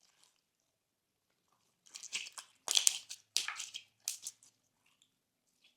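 Hand-worked slime crackling and popping: a run of short crackles and small pops for about two seconds, starting about two seconds in.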